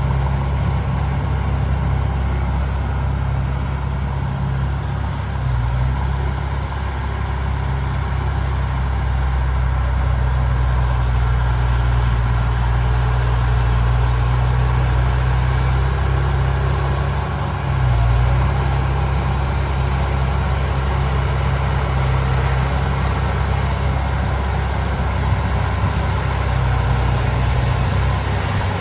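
Heavy diesel engine of earthmoving machinery running steadily under a constant load, with a brief dip and recovery in its note about two-thirds of the way through.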